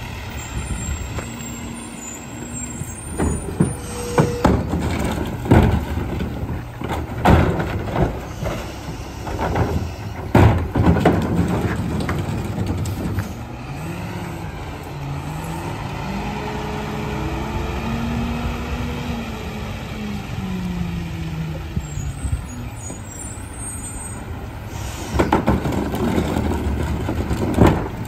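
A garbage truck works a bin pickup. Its engine runs throughout, with a series of sharp bangs and knocks in the first half and again near the end. In the middle, a whine rises and falls over several seconds.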